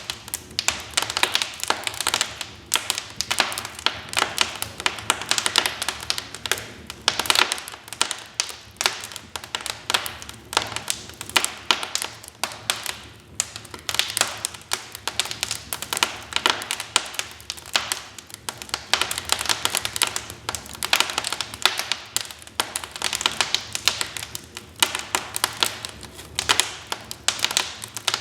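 Wood fire crackling in a fireplace: a dense, uneven run of sharp snaps and pops.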